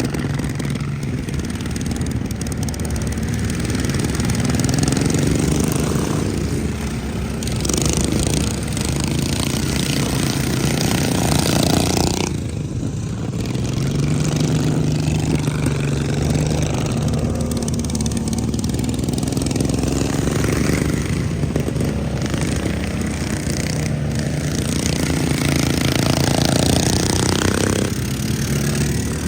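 Racing lawn mower engines running hard, their pitch rising and falling with the throttle over the whole stretch, with a brief dip in level about twelve seconds in.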